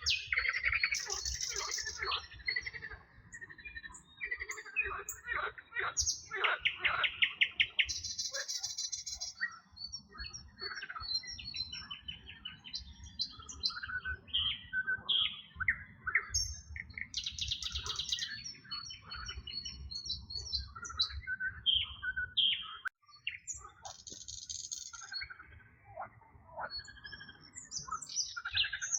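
Several wild songbirds singing and calling at once, overlapping chirps, whistles and rapid high trills, with a buzzy high trill standing out every several seconds.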